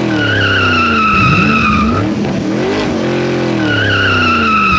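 Race car sound effect: engines revving up and down with long tire squeals, the same pattern repeating twice, about three and a half seconds apart.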